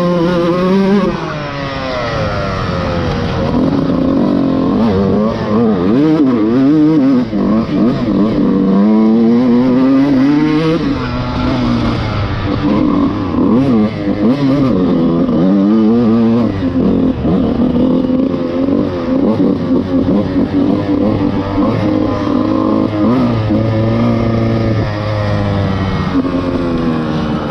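Dirt bike engine revving up and down again and again as it is ridden, held steadier for a stretch in the later part.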